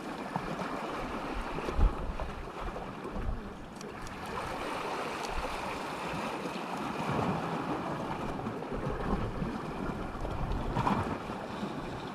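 Sea waves washing with wind buffeting the microphone in gusts, and one sharp thump about two seconds in.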